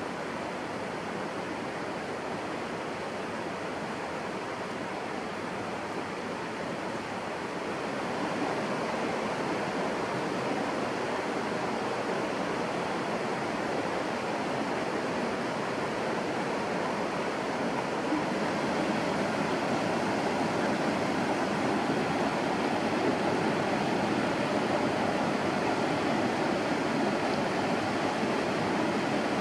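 Steady rushing noise, like running water or heavy rain, growing louder about eight seconds in.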